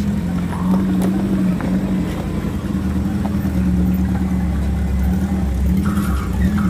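A car driving along: a steady low drone of engine and road noise.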